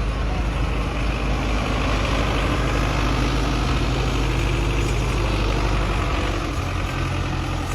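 Belarus tractor's diesel engine idling steadily.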